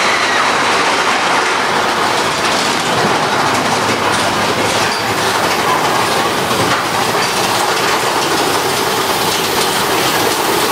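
Roller coaster train running along its track, heard from on board: a steady loud rush of noise with scattered clacks from the wheels and track.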